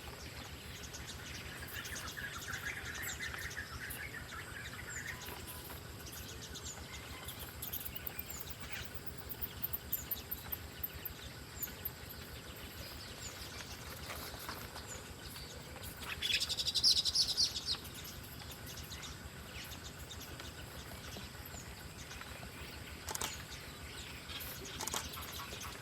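Wild birds chirping on and off over a low outdoor background hiss, with a louder burst of rapid, high chirping about two-thirds of the way through.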